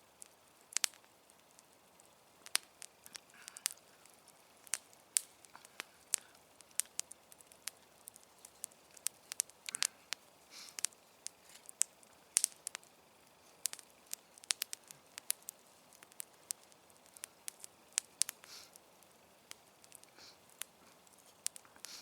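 Wood campfire crackling, with frequent irregular sharp pops and snaps over a faint hiss.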